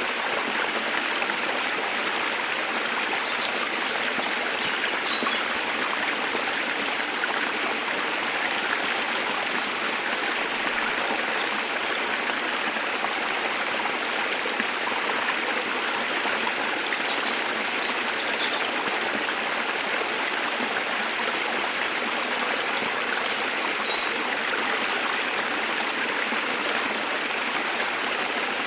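Steady rushing of a waterfall and its stream, with a few faint, brief bird chirps scattered over it.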